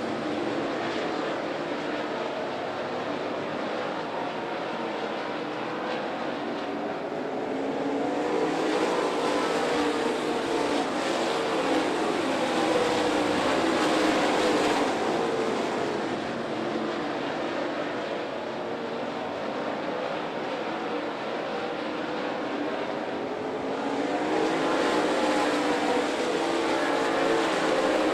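A field of dirt late model race cars running at speed on a dirt oval, their V8 engines making a continuous layered drone. It swells louder twice as the pack comes around.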